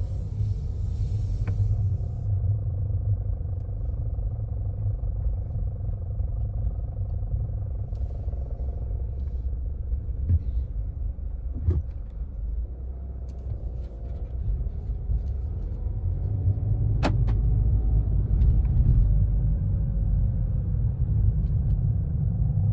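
2016 VW Jetta's engine running, heard from inside the cabin: a steady deep rumble with a few sharp clicks, the noise the owner takes for timing chain rattle.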